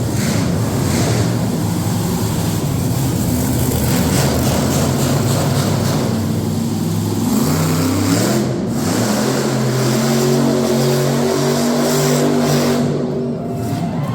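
Monster truck engine revving, its pitch repeatedly climbing and dropping.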